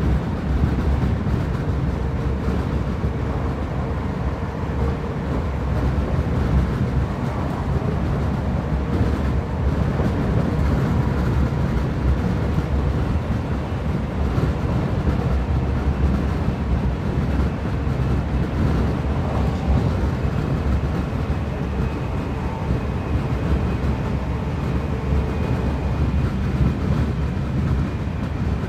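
Interior running noise of a Class 323 electric multiple unit travelling at speed: a steady low rumble of wheels on the rails. A faint high whine comes in about twenty seconds in.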